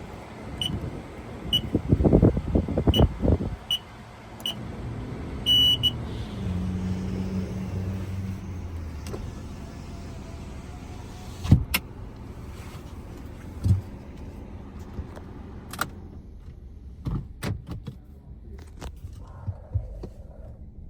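A series of short high electronic beeps, then a car's power window motor humming for about two seconds. A car engine idles underneath, with a few sharp clicks.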